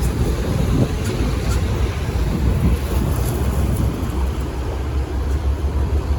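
Steady low rumble and hiss of wind buffeting the microphone outdoors.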